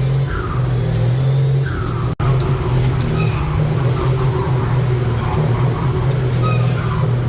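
Truck engine running steadily, a low drone, with a momentary dropout about two seconds in.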